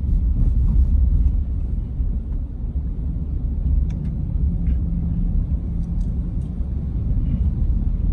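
A car driving, heard as a steady low rumble of engine and road noise, with a few faint light ticks.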